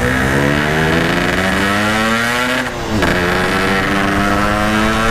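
Yamaha RX-King single-cylinder two-stroke motorcycle engine accelerating, its pitch climbing, dropping once at a gear change about three seconds in, then climbing again. The engine is pulling through the revs after ignition work.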